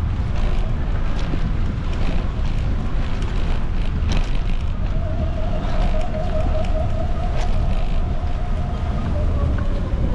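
Wind rushing over the microphone of a camera riding along on a bicycle, a steady low rumble, with scattered light clicks and a faint held tone in the second half.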